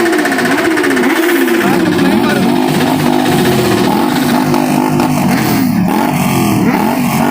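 Superbike engines revved with repeated throttle blips, the exhaust note dropping and climbing again about once a second.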